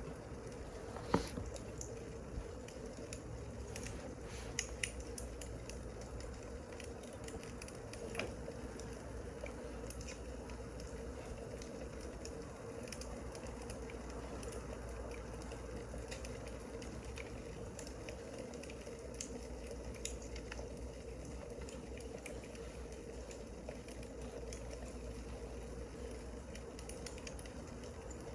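Wood fire crackling: a steady hiss with scattered sharp pops, the loudest about a second in.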